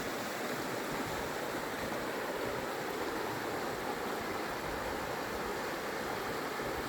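Steady rush of a glacial mountain creek or waterfall, unbroken and even.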